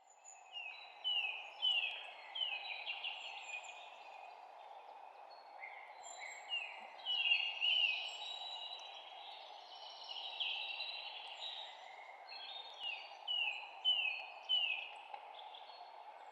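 Songbirds chirping: series of quick, falling whistled notes, repeated several times in a row at the start and again near the end, over a steady background rush.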